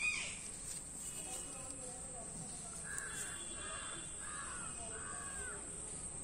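Bird calls: one louder call at the very start, then a series of four calls about three to five seconds in, over a steady high-pitched background hum.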